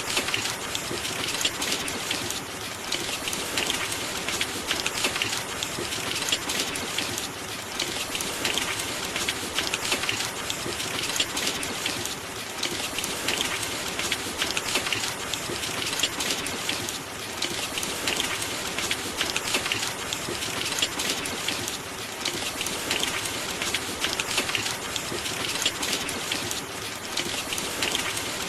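Steady rain, a dense patter of drops that gently swells and eases every couple of seconds.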